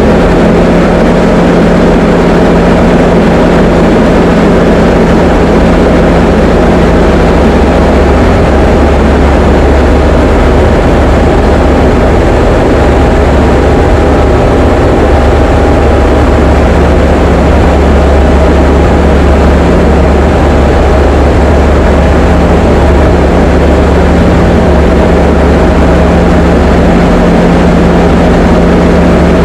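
Diamond DA20 light aircraft's piston engine and propeller heard from the cockpit as a loud, steady drone that holds one pitch throughout.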